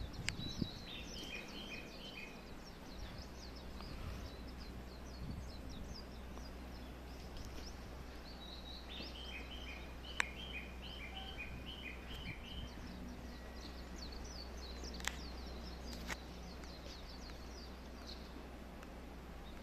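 Small birds chirping in quick repeated series over a steady low outdoor rumble, with a few sharp clicks.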